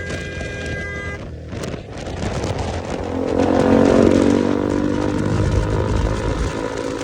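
Motor vehicle engine running on the road over steady road and wind noise, its note swelling to a peak about halfway through and then easing off.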